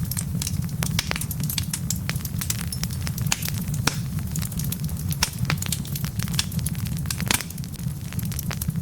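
Wood fire of burning logs crackling, with frequent irregular sharp pops over a steady low rumble.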